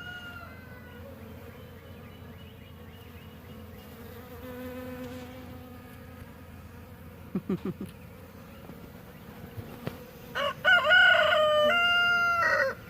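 Honey bees buzzing around a hive in a steady, faint hum. A few quick low calls come just past the middle, and near the end a rooster crows once loudly for about two seconds.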